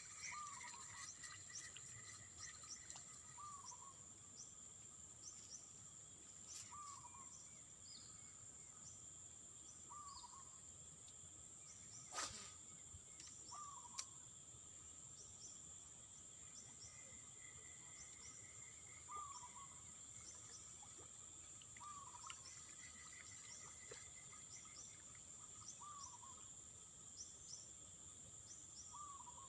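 Faint wild-animal ambience: a steady high insect drone, with a short hooked call repeated every few seconds and scattered high chirps. Two sharp clicks about twelve and fourteen seconds in.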